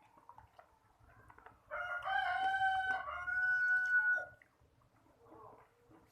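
A rooster crowing once, starting a little under two seconds in and lasting about two and a half seconds, one long pitched call that holds its tone before breaking off.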